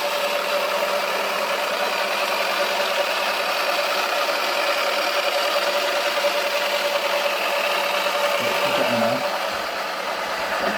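Toy washing machine's small motor running with a steady hum, the plastic powder dispenser ball rattling in its drum. The hum stops about nine seconds in.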